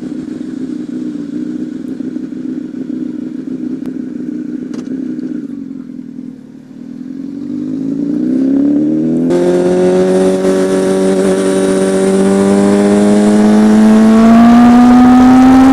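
Honda CBR1000RR Fireblade's inline-four engine running at a steady note, easing off briefly about six seconds in, then accelerating with its pitch climbing. A rush of noise joins about nine seconds in, and the engine keeps pulling with a slowly rising note.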